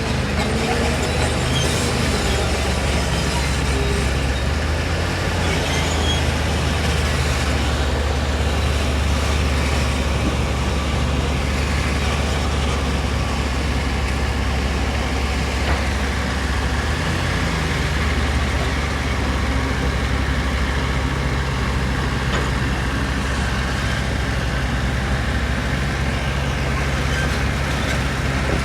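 Heavy diesel engine of construction machinery running steadily, a loud, continuous low drone that shifts slightly in pitch a few times, with mechanical noise over it.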